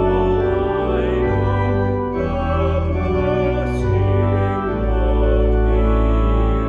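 Organ music: slow, held chords over a bass line whose notes change every second or so.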